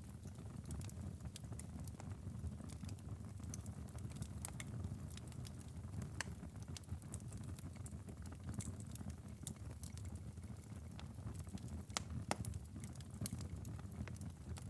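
Fireplace fire crackling: frequent irregular sharp pops and snaps over a steady low rumble of the flames, with one louder pop about twelve seconds in.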